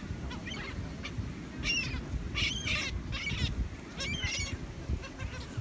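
Gulls squawking, a run of harsh, high calls one after another, with the loudest burst about halfway through, over a steady low rumble.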